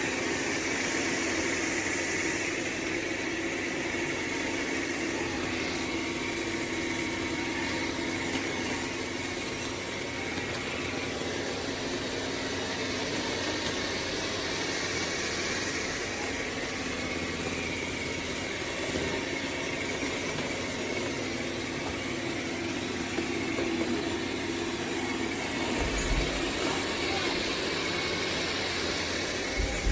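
Dreame L40 Ultra robot vacuum running, a steady whir of its suction fan and brushes with a held hum. Two brief low bumps come near the end.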